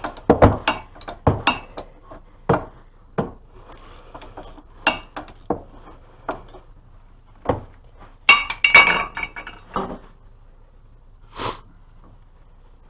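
Metal hand tools such as wrenches clinking and clattering against each other as they are rummaged through, in irregular sharp clinks, with a dense run of them about eight seconds in.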